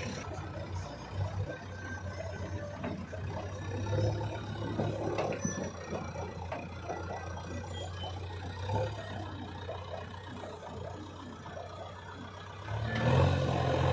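Diesel engine of heavy farm machinery (backhoe loader or tractor) running steadily, louder about a second before the end.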